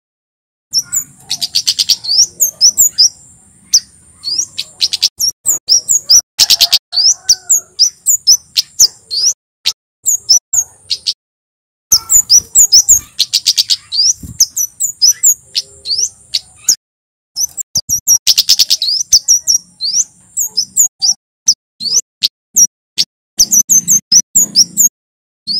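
A male kemade jawa, a flowerpecker, singing loudly. It gives long runs of rapid, high, sharp chip notes broken by brief pauses, with a louder rattling trill coming back every few seconds.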